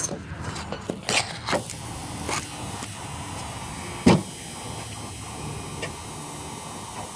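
BMW 323ci engine being cranked by the starter without catching, a steady hum broken by several sharp clicks, the loudest about four seconds in. The engine fails to start after a gasket replacement.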